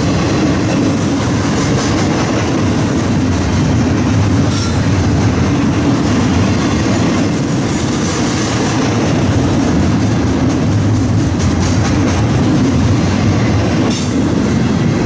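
Double-stack intermodal freight train's well cars rolling past, a loud, steady rumble of steel wheels on rail, with a few sharp clicks from the wheels.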